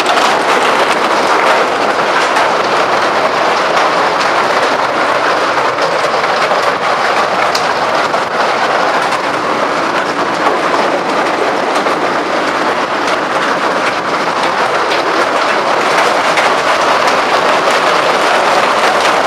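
Hail pelting down hard, a loud, dense and unbroken clatter of hailstones striking.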